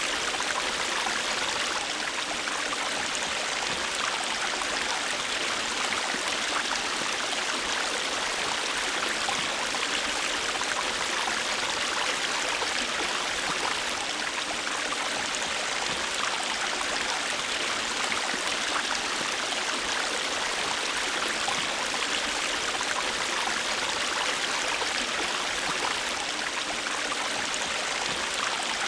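River water flowing over rocks: a steady rush with fine splashing and gurgling.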